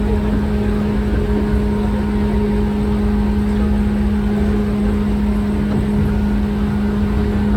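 JR West 115 series electric train running at a steady pace: a constant low rumble of wheels on track with a steady hum underneath.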